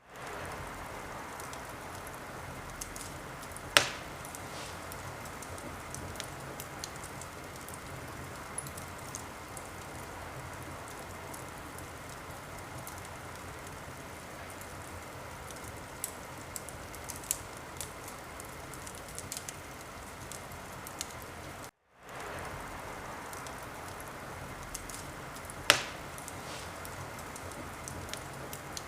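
Wood fire in a fireplace crackling over a steady soft hiss, with scattered small snaps and two loud sharp pops, about four seconds in and near the end. The sound cuts out briefly about three-quarters of the way through and fades back in.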